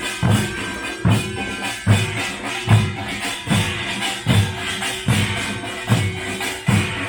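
Korean pungmul (nongak) folk percussion band playing: deep drum beats about every 0.8 seconds over a constant clatter of metallic percussion, with a steady held note above.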